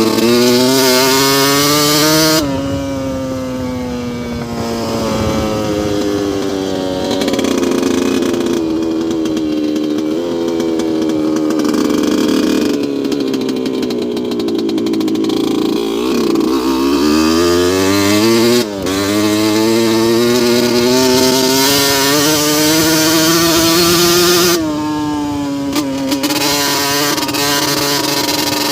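2002 Yamaha YZ125 single-cylinder two-stroke engine running hard, its pitch rising and falling over several seconds at a time. The pitch drops sharply about two seconds in and again near the end, with a brief dip about two-thirds of the way through.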